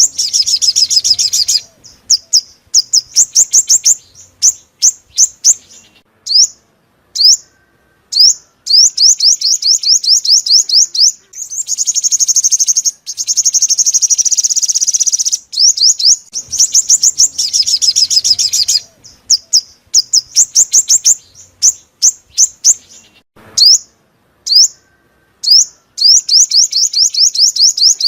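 Sunbird song: rapid trills of high, sharp down-slurred notes broken by single spaced notes, with a longer buzzy trill about halfway through. The phrases repeat in the same order, as on a looped lure recording played to draw wild sunbirds to a trap.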